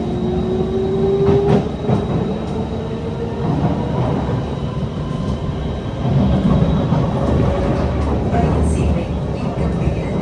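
Kawasaki C151 MRT train running, heard from inside the car: a traction motor whine rises in pitch over the first second and a half as the train picks up speed, then gives way to steady wheel and track rumble, heavier in the second half.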